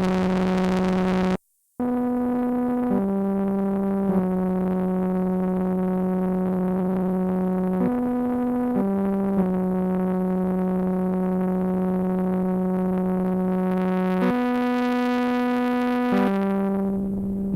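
Sequential analog synthesizer playing slow sustained notes: a low held note with a note or two above it, each changing after one to several seconds. The sound cuts out completely for a moment about a second and a half in.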